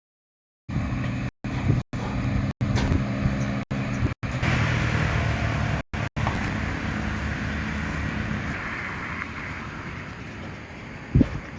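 A vehicle engine running steadily with road traffic noise. The sound cuts out abruptly several times in the first six seconds, and there is a short thump near the end.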